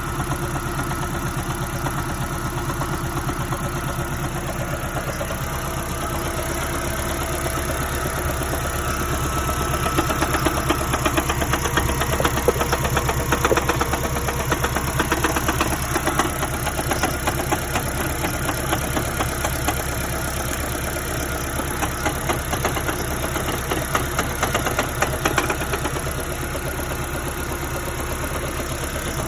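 Third-generation Toyota Prius 1.8-litre four-cylinder engine running with a rapid, steady knock, louder and harsher through the middle stretch. The knock is the sign of engine damage after its electric water pump failed (code P261B) and was left unrepaired.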